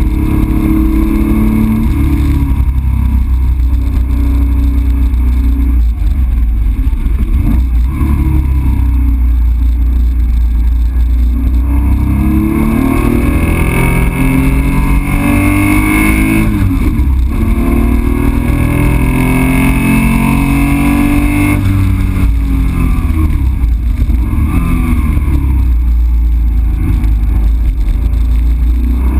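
Air-cooled 2.7-litre flat-six on PMO carburettors in a 1966 Porsche 911, heard from inside the cabin, running hard with its pitch climbing and dropping several times as it is taken up through the revs and back, over steady road and wind noise.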